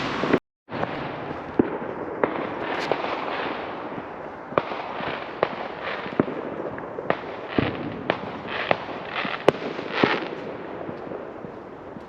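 Fireworks going off: a steady wash of crackling and rumbling with many sharp bangs at irregular intervals. The sound cuts out completely for a moment just after the start.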